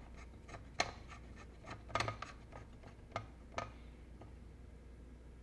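Hands fitting small parts into a plastic electronics enclosure: a handful of sharp clicks, most of them in the first four seconds, with light scratching and rubbing between them.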